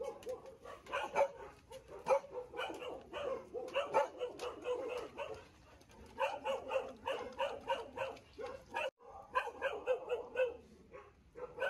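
Many dogs barking and yipping at once, a dense chorus of overlapping barks, with a short break about nine seconds in.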